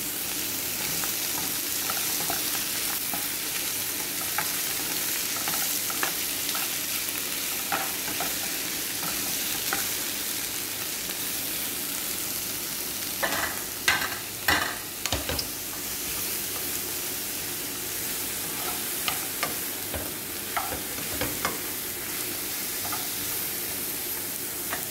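Chunks of desert truffle and sliced green chilies sizzling in hot oil in a pan, with a steady hiss as they are stir-fried with a spatula. Scattered taps and scrapes of the spatula against the pan run through it, and there is a burst of louder scraping about halfway through.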